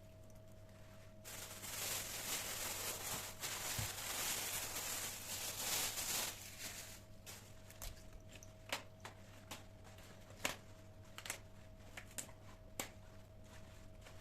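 Rustling and crinkling, as of paper or packaging being handled, for about five seconds. Then a string of separate light clicks and taps, over a faint steady hum.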